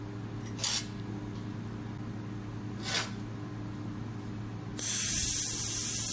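Handheld laser welding machine with wire feed on 2 mm stainless steel: a steady machine hum, two short hissing bursts about a second in and three seconds in, then a continuous loud hiss from near the end as a weld runs.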